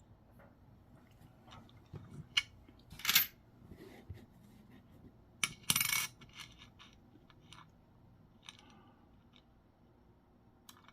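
Coins clinking and tapping against each other and a hard surface as they are handled and set down: a handful of short, light clinks spread over the stretch, the loudest about three seconds and six seconds in.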